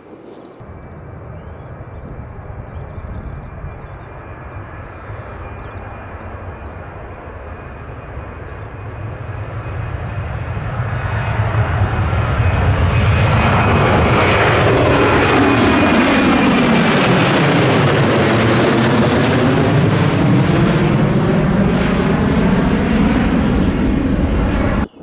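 Jet airliner passing close by, building from a distant rumble to a loud, steady roar with a whooshing sweep in pitch as it goes past, then cutting off suddenly near the end.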